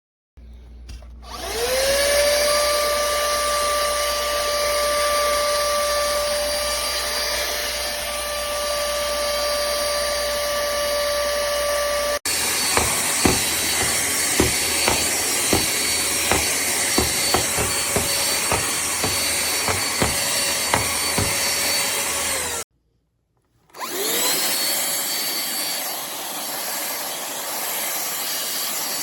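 A pemacom cordless handheld vacuum switched on, its motor winding up to a steady high whine. Midway, a run of irregular sharp clicks sounds over the whine for about ten seconds. Near the end it cuts off for about a second, then winds up again.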